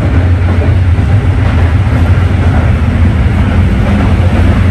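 Passenger sleeper train running, heard inside the carriage: a steady low rumble with a rushing wheel-and-track noise over it.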